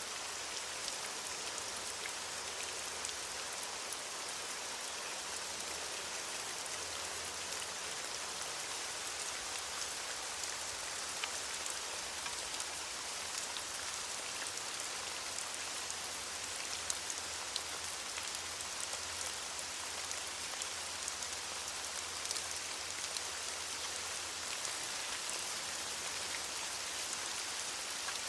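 Steady rain falling on leaves: an even hiss, strongest in the high end, dotted with many small, sharp drop taps.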